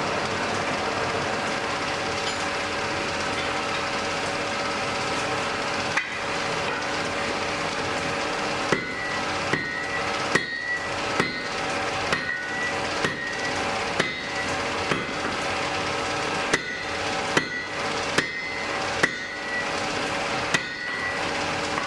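Blacksmith's hammer striking on an anvil, a single blow about six seconds in, then regular blows about one a second, each with a short metallic ring. Under it runs the steady rushing noise of the forge fire.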